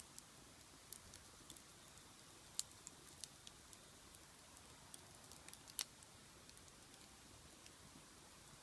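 Wood fire burning in a large iron pot, crackling quietly with irregular sharp pops over a faint hiss; two louder pops, about two and a half and six seconds in.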